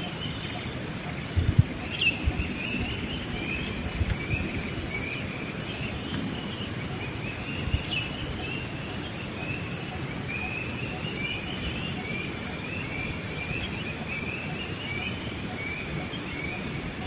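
Wild birds calling in rapid series of short chirps over a steady, high-pitched insect drone. A few low thumps sound in the first eight seconds.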